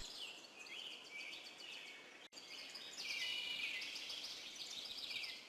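Nature ambience of small birds chirping and twittering, with a momentary break about two seconds in, after which it comes back a little louder.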